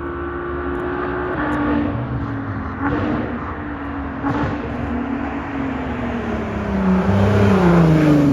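Catless, straight-piped VW R32's 3.2-litre VR6 exhaust, loud and open. Its engine note drops in pitch in a few steps, then slides lower while it grows louder near the end.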